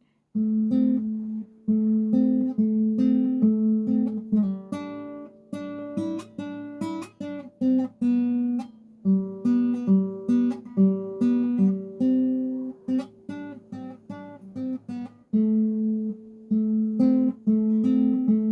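Acoustic guitar playing an instrumental passage: chords strummed and picked in a steady rhythm, with a short break about three quarters of the way through.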